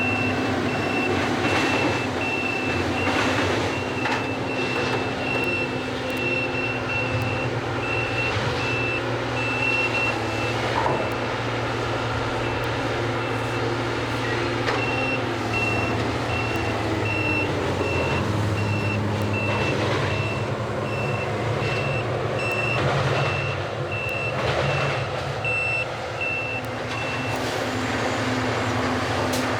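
Backup-style warning beeper on track renewal train machinery, sounding a steady train of high beeps, about one and a half a second, that pause for a few seconds midway and stop near the end. Under it the train's diesel machinery runs steadily.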